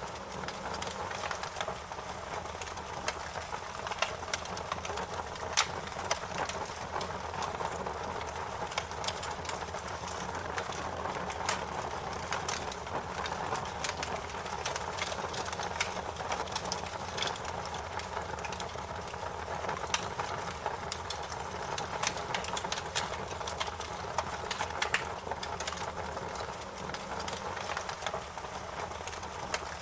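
Wood fire crackling, with frequent sharp, irregular pops and snaps over a steady low hiss of the flames.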